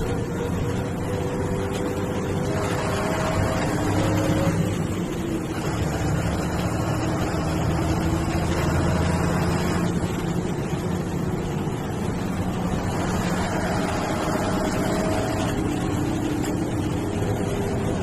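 Diesel engine of an MSRTC bus running under load, heard from inside the bus, with a whine that climbs in pitch as the bus accelerates and drops back twice, at gear changes.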